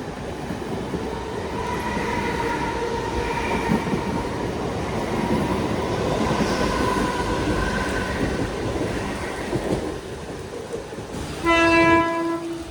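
Train running on the rails with a steady rumble and a faint whine. Near the end comes one loud horn blast of about a second.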